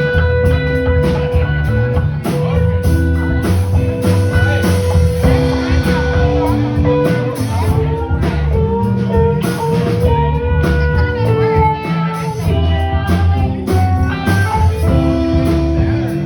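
Live band music in a blues-rock style with guitar: a melody line of long held notes that slide to new pitches over a steady rhythm.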